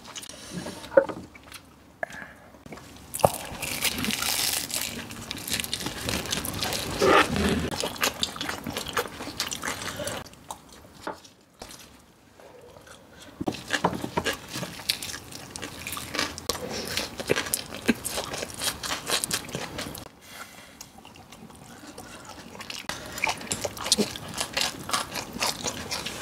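Close-miked eating sounds: bites into a fried pork cutlet with crunching of the crisp breading and wet chewing. They come in stretches, quieting briefly twice.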